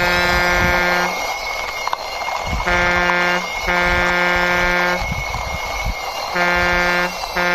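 A truck-horn sound, one steady pitched tone, honking in a repeating pattern of a short honk then a long one, a pair about every four seconds. A faint low rumble runs under it.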